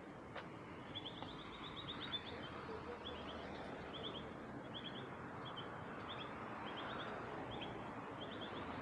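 A bird chirping repeatedly: a quick run of short high notes about a second in, then clusters of two or three notes roughly every half-second, over a steady background of city noise.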